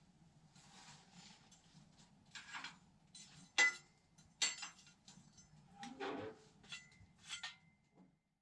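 Scattered light clinks and knocks, like handling of camp cookware or metal gear, over a faint low steady hum.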